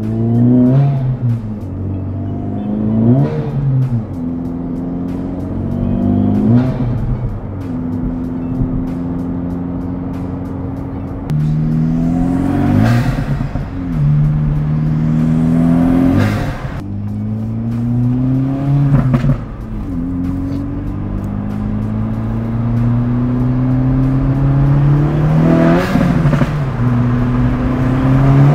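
Acura Integra Type-S turbocharged 2.0-litre four-cylinder, with an open ram-air intake and aftermarket downpipe, accelerating hard through the gears, heard from inside the cabin. The engine note climbs in pitch and drops back at each shift, several times over, with a brief rush of noise at each shift. The intake is loud under boost.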